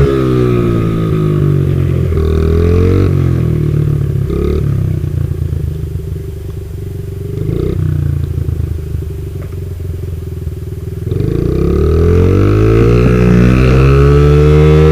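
Motorcycle engine running and being revved. The pitch rises and falls, settles lower and quieter after about three seconds, then climbs again in a rising rev near the end.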